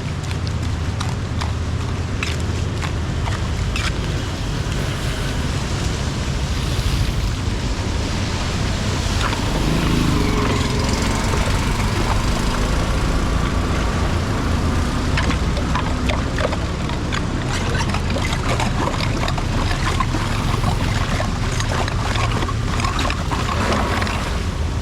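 Heavy rain and rushing floodwater in a steady loud rush with a low rumble, broken by scattered knocks and clatters.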